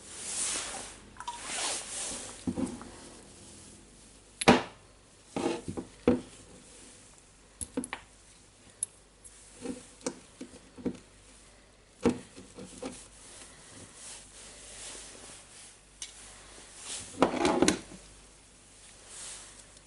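Hand tools and metal parts of a DeWalt D25003 rotary hammer drill being handled on a workbench: scattered sharp clinks and knocks, with short stretches of rubbing near the start and near the end.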